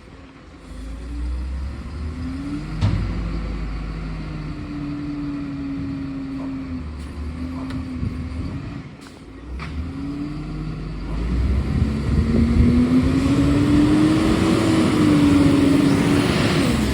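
Garbage truck engine running, its revs rising and falling several times, climbing louder over the last few seconds before dropping near the end.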